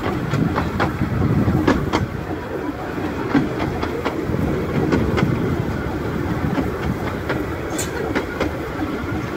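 Miniature-railway train running along the track: a steady rumble with irregular sharp clicks of the wheels over the rails.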